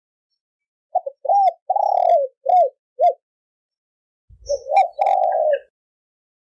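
Spotted dove cooing in the 'thổ kim' style used to lure wild doves. It gives two phrases: first a run of about five short coos, then, about four seconds in, a longer rolling coo.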